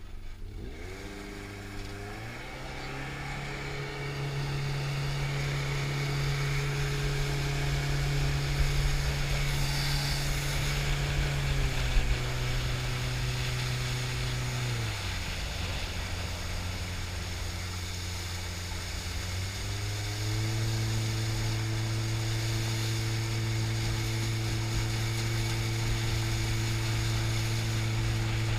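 80 hp Explorer jet boat engine running under way: it speeds up about two seconds in and holds a steady pitch, eases back to a lower speed about halfway through, then picks up again and holds steady to the end.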